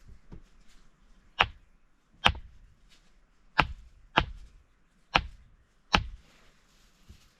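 Six sharp chopping blows of a tool striking wood, spaced unevenly about a second apart, each dying away quickly.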